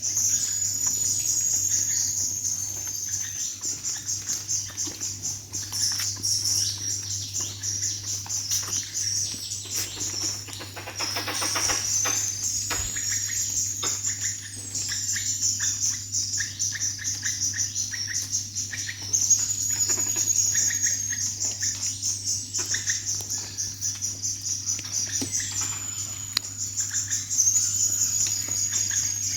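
Forest birdsong: high, chirping calls repeat every two to three seconds over a dense high-pitched trill. A brief, harsher rapid chatter comes in about eleven seconds in.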